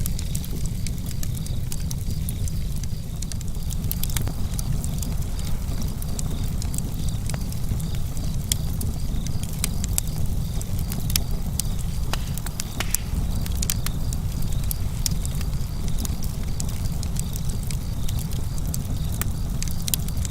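Campfire crackling: wood snapping and popping in quick, irregular clicks over a steady low rumble.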